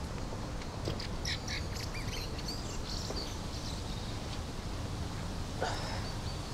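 Birds calling over a steady outdoor background: a run of short high chirps in the first few seconds, then one louder call reaching lower about five and a half seconds in.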